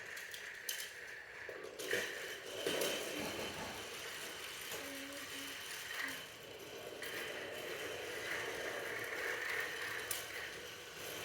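Toy train running on its track: a small motor and gears whirring steadily, with a few sharp clicks.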